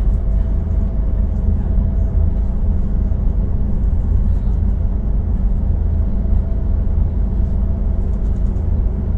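Volvo B12BLE city bus engine running steadily: a deep constant rumble with a few steady hum tones above it.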